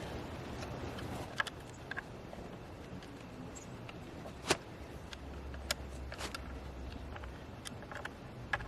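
Sparse light clicks and taps of a screwdriver working the screws on a chainsaw's housing, snugging them down to stop a fuel leak. The sharpest click comes about halfway through.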